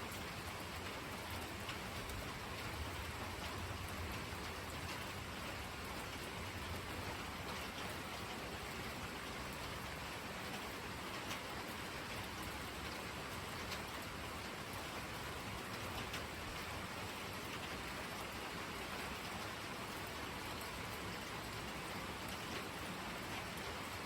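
Steady rainfall, an even hiss with scattered drop ticks from rain hitting surfaces.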